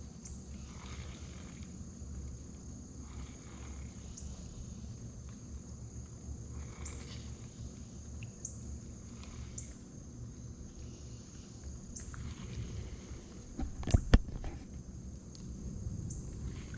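Evening insects, crickets among them, chirping in a steady high chorus over a low outdoor rumble, with a few faint ticks and two sharp knocks close together about fourteen seconds in.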